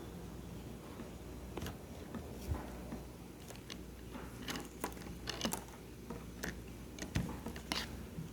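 Small irregular clicks and taps of a plastic Barbie doll and her accessories being handled as her glasses are pulled off and a paper mask is tried on, starting about a second and a half in.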